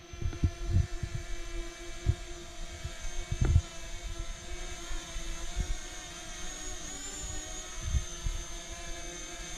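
Parrot Anafi quadcopter drone flying, its propellers making a steady whine whose pitch wavers slightly about seven seconds in. Irregular low thumps of wind buffeting the microphone run through it.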